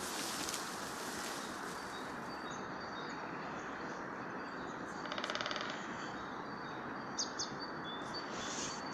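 Forest ambience: small birds giving short, high chirps again and again over a steady background hiss, with a brief buzzy rattle about five seconds in.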